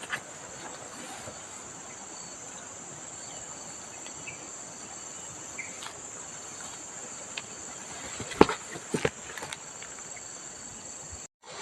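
Steady high-pitched insect chorus. A few sharp clicks or knocks come about two-thirds of the way through.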